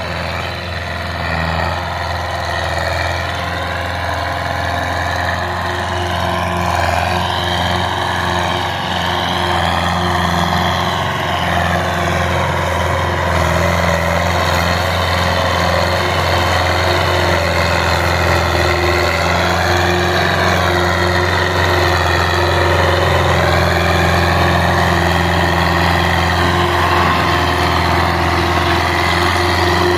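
Belarus tractor's diesel engine running steadily with a deep, constant note, getting gradually louder over the first several seconds.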